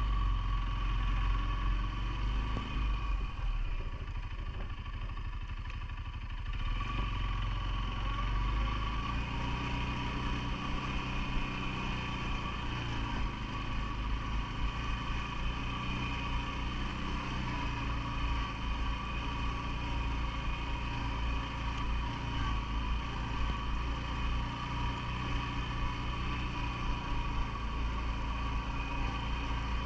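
CFMoto ATV engine running steadily. It eases off a few seconds in and picks up again about six seconds in.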